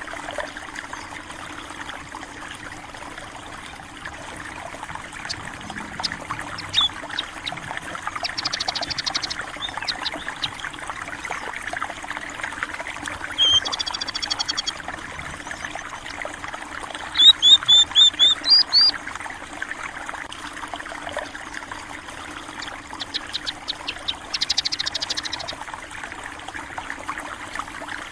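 A stream trickling and rushing steadily, with munias chirping over it in short high-pitched bursts. The loudest is a quick run of about seven chirps a little past halfway.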